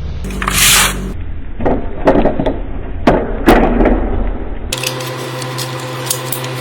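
Hand work on a die-cast model car body: a series of rasping rubbing strokes, roughly one every half second to a second, over a steady hum. The sound changes abruptly twice.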